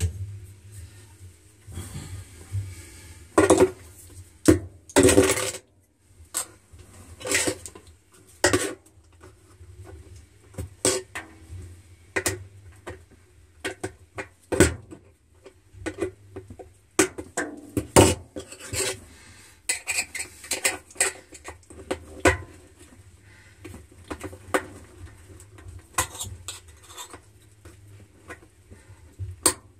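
Metal tools clinking and scraping inside the tub of an LG Wave Force top-load washer, prying at a coin wedged between the spinning bottom plate and the tub wall. The clinks come irregularly, a few of them loud, over a low steady hum.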